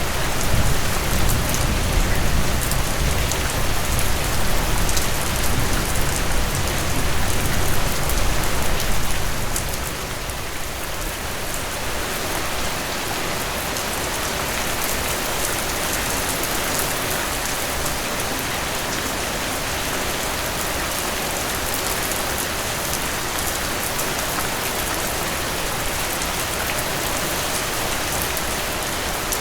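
Steady heavy rain falling and splashing on surfaces. A low rumble underlies the first third and fades out about ten seconds in.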